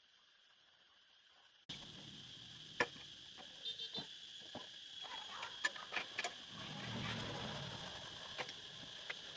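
Near silence that cuts suddenly, a little under two seconds in, to workshop sounds. Scattered sharp clicks and knocks of tools and metal engine parts being handled sound over a steady high insect-like hum, with a short low rumble midway.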